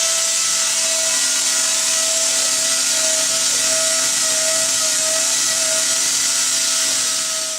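Steady machine whir with a high hiss and a constant humming tone, fading out near the end.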